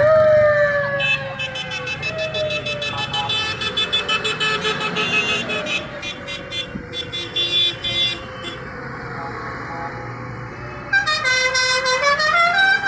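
Vehicle horns sounding from passing parade vehicles over a steady engine hum. A long held note slides slowly down at the start, and a run of stepped rising notes sounds near the end.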